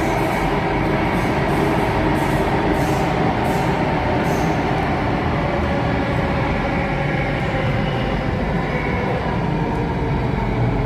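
Alstom Metropolis C830 metro train on Singapore's Circle Line running between stations, heard from inside the carriage: a steady rumble of wheels on rail with a few faint clicks in the first half.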